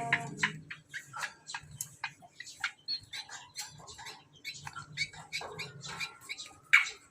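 Greater green leafbird (cucak kombo) giving a rapid, irregular run of short sharp chirps and clicks, with a louder chirp near the end.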